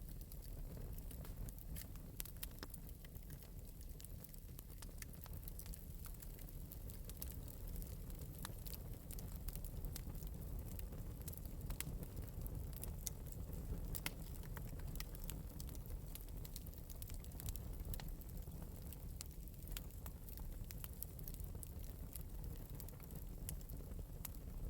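Fire in an open metal fireplace crackling, with frequent small sharp pops scattered irregularly over a low steady rumble.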